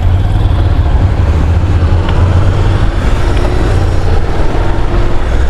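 Wind noise buffeting the helmet microphone over the steady running of a Honda NC750 parallel-twin motorcycle at road speed.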